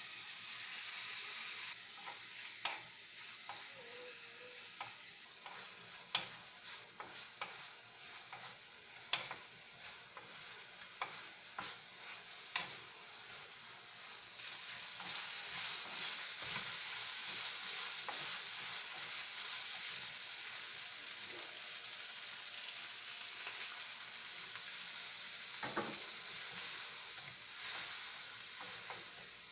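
Chicken gizzards sizzling in a wok with sautéed onion, garlic and ginger, while a wooden spatula knocks and scrapes against the pan as they are stirred. The knocks are sharpest and most frequent in the first half; from about halfway through the sizzling grows louder and more even.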